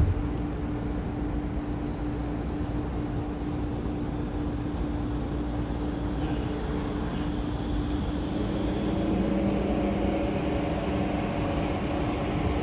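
Interior of a Saitama Railway 2000 series electric train: a thump at the start, then a steady equipment hum while it stands. About eight seconds in, the traction motors start and their whine begins to rise as the train pulls away.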